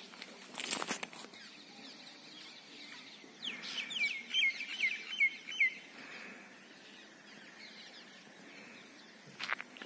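A bird calling: a run of about eight quick, high chirps, each falling in pitch, lasting about two seconds in the middle. A few short knocks, likely footsteps or camera handling, come near the start and again near the end.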